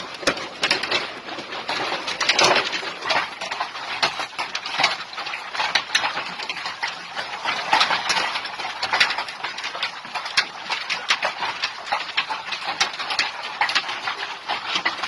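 Large hailstones pelting down: a dense, irregular clatter of hard impacts that keeps up throughout.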